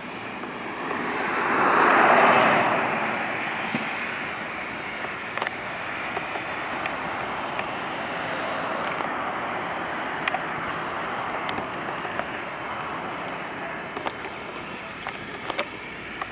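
Boeing 737-800 jet engines running with a steady rushing noise, a louder swell about two seconds in, and scattered light clicks over it.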